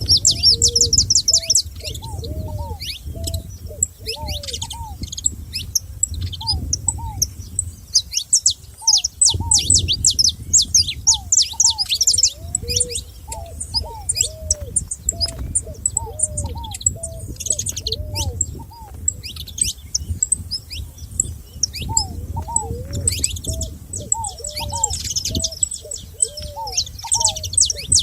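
A chorus of many small songbirds chirping and singing together, a dense overlapping mix of quick high notes. Lower, rounded notes repeat in pairs throughout, and a faint low rumble lies underneath.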